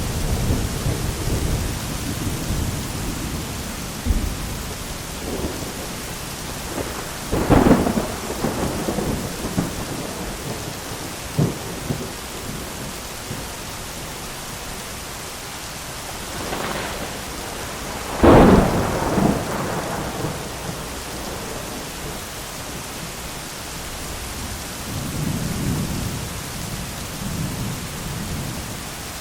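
Thunderstorm with steady heavy rain. Low thunder rumbles at the start, then sharp thunder cracks about 7 and 18 seconds in, the second the loudest, followed by a smaller one. A rolling rumble returns near the end.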